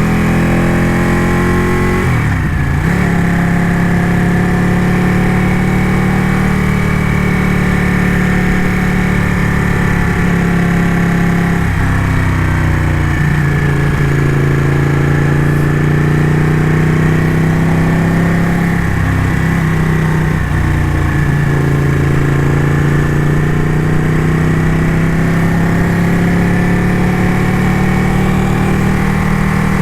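Ducati motorcycle engine running under way, its pitch steady for long stretches and dipping and climbing again a few times.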